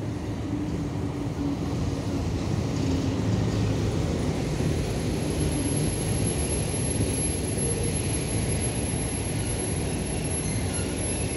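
VL10 electric locomotive and its passenger coaches rolling past at close range: a steady rumble of wheels on rail joints that grows a little louder over the first few seconds. A thin high whine joins about halfway through.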